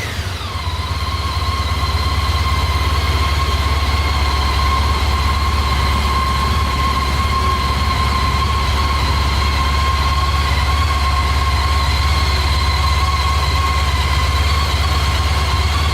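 Honda ST1300's V4 engine settling from a blip of revs to a steady idle just after the start, then idling evenly.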